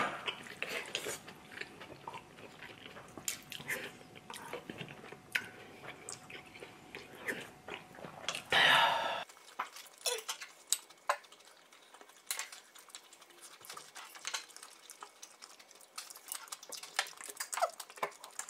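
Close-up eating sounds: chewing and mouth noises while eating a cabbage-leaf wrap, with scattered light clicks. There is a louder burst of noise a little before halfway.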